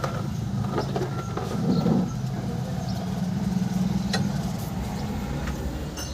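Tata Ace engine running steadily, a low hum that swells briefly about two seconds in, with a few faint clicks over it.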